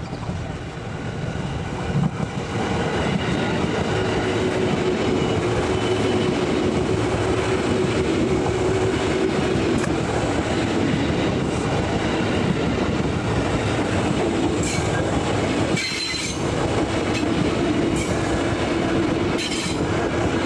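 Electric multiple-unit commuter train running past at close range: steady rumble of wheels on rail, with a held tone from about 4 to 10 seconds in and sharp clacks over rail joints in the second half.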